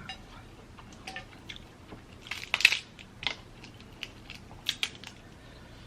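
Dungeness crab leg shells being cracked and broken apart during eating, a scatter of sharp cracks and clicks, the loudest about two and a half seconds in.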